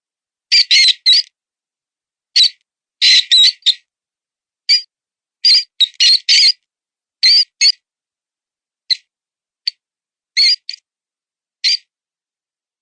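Mouse distress squeaks, as used for a predator call: short, high-pitched, wavering squeaks in irregular bursts of one to four, with silent gaps between them.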